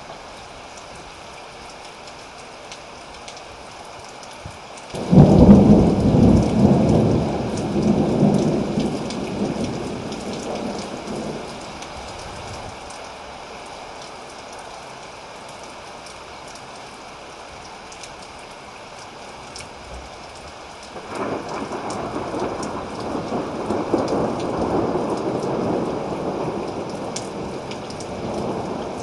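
Thunderstorm: steady rain with two peals of thunder. The first breaks suddenly about five seconds in and rumbles away over several seconds. The second, longer rumble starts about three quarters of the way through and keeps going.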